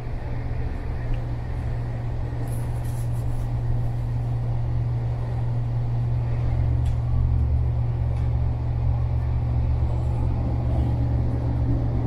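Steady low rumble and hum of a moving passenger train, heard inside the carriage by the doors, growing slightly louder about halfway through, with a few faint clicks.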